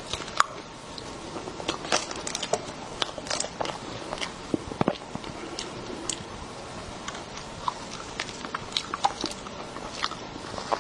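Close-miked eating sounds of a person chewing soft cream cake, an irregular run of short sharp mouth clicks and smacks.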